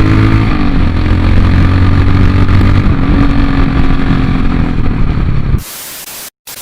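Royal Enfield Himalayan's single-cylinder engine running at speed through a Red Rooster aftermarket exhaust, with a slight shift in pitch about half a second in. Near the end the sound cuts off abruptly, giving way to a short hiss and a brief dropout.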